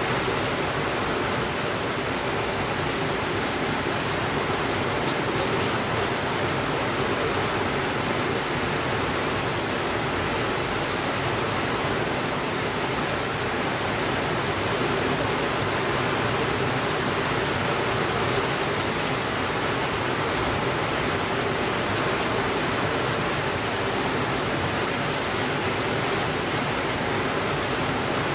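Steady rainfall, an even hiss with no breaks, with a few faint ticks here and there.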